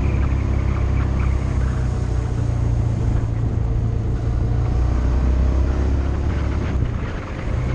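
Motorcycle engine running steadily under way, with wind and road noise, and a brief drop in level about seven seconds in.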